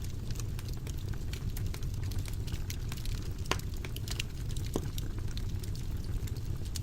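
Wood fire burning in a fireplace: a steady low rumble of flames with frequent small crackles, and two sharper pops a little after halfway.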